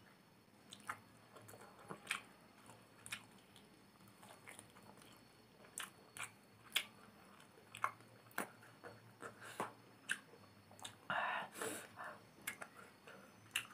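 Close-up mouth sounds of a person chewing instant noodles: a steady run of short, irregular wet clicks and smacks, with one louder, longer noisy burst near the end.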